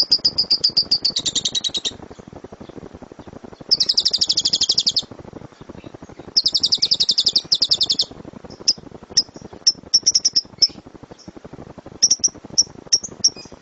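Lovebirds chattering in rapid, high-pitched trills, the 'ngekek' call, in runs of one to two seconds, then breaking into short separate chirps about halfway through.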